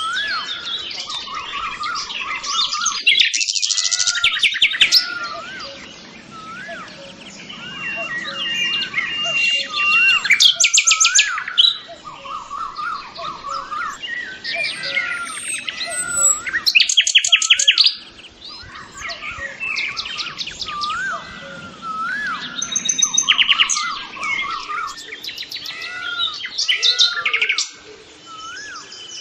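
Several birds singing and chirping together: a steady stream of short whistled notes, with a louder rapid trill breaking in every few seconds.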